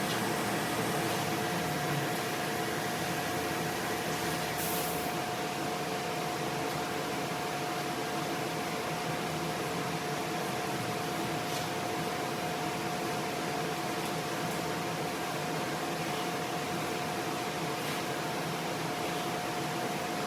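Steady machine hum with a constant whine, unchanging throughout, with a few faint ticks, the clearest about four and a half seconds in.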